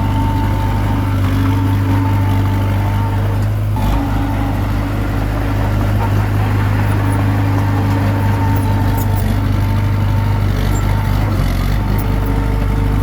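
Komatsu D21P bulldozer's diesel engine running steadily under load, its pitch shifting slightly about four seconds in.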